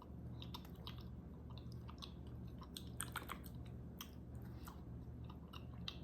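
Faint, irregular chewing with small wet mouth clicks as a bite of soft aerated chocolate with a cream filling is eaten. A steady low hum runs underneath.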